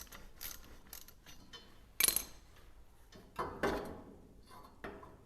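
A hand ratchet clicking about twice a second for the first second, then metal knocks and a scraping clunk as a steel transmission mount bracket is worked into place, the loudest a sharp knock about two seconds in.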